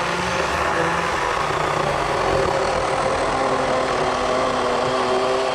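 WORX WG384.9 40-volt battery electric chainsaw with an 18-inch Oregon bar running steadily at full speed, an even whine with no change in pitch.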